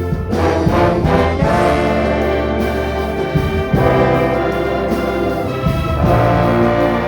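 An orchestra with a prominent brass section playing a hymn arrangement: sustained chords over a steady bass line, with the harmony shifting every second or two.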